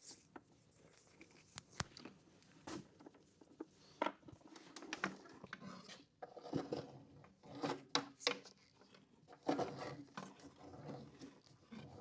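Scattered clicks, taps and rustling of hands working with electrical wire and tape, busier in the second half.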